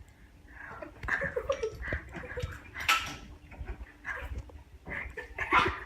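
A person gagging and retching, with harsh coughing bursts about three seconds in and again near the end, after a mouthful of beet.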